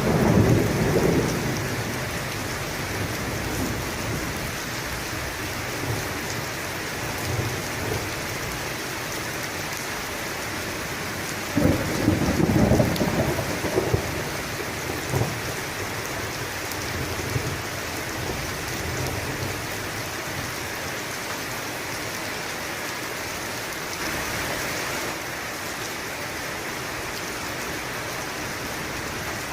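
Steady rain with thunder: a rumble dying away in the first couple of seconds, then a sudden thunderclap about twelve seconds in that rumbles on for a few seconds.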